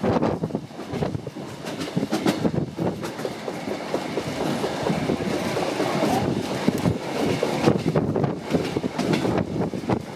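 Kuranda Scenic Railway train running along the track, its carriage wheels clattering over the rails in irregular clicks over a steady rumble, heard from an open carriage window.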